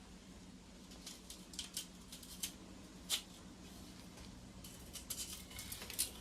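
Gritty scraping against porcelain tile in short, irregular strokes, starting about a second in and growing busier near the end, over a faint steady hum.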